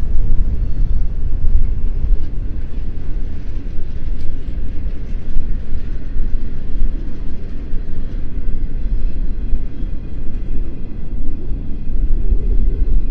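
Strong wind buffeting the microphone in gusts, over the rumble of a passing freight train; faint steady tones from the train's wheels join in about two-thirds of the way through.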